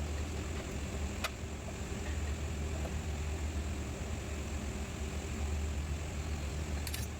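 A car engine idling steadily, with one sharp click about a second in and a short run of clicks near the end.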